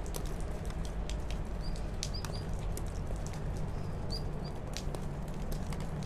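A few short, high bird chirps, spread across the stretch, over a steady low hum, with light clicks and rustles from the plant's bare roots being handled.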